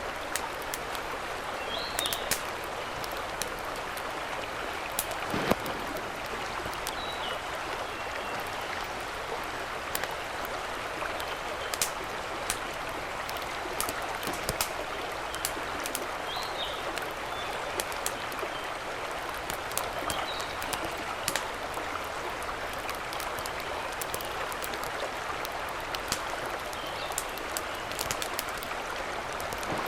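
Steady rushing of a mountain stream, with scattered sharp ticks throughout and a few faint high chirps from a small bird now and then.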